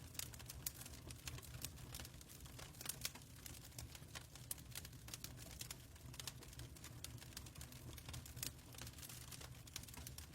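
Faint fireplace crackle: irregular small pops and snaps, unevenly spaced and of varying strength, over a steady low hum.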